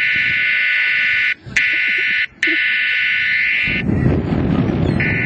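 A loud, steady, high-pitched buzzing tone, broken by two short gaps and cutting off about four seconds in, then a rushing noise.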